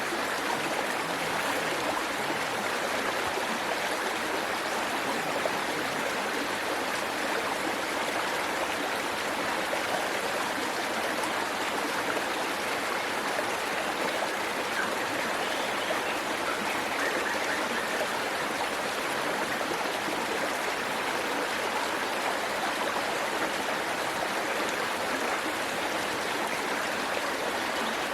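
Waterfall and stream water rushing and splashing in a steady, unbroken wash.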